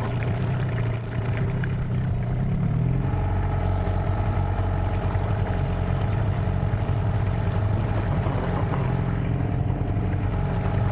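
Outboard motor, apparently a Hidea 9.9, running steadily at low speed on an inflatable boat during trolling. Its note shifts slightly about three seconds in.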